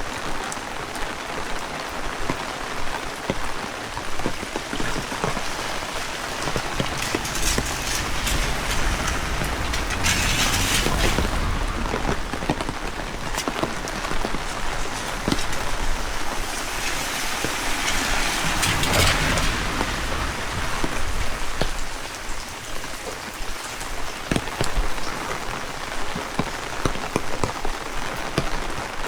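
Heavy rain falling steadily, with many single drops tapping sharply close by. Twice, in the first half and again just past the middle, the wind gusts up and adds a low rumble on the microphone.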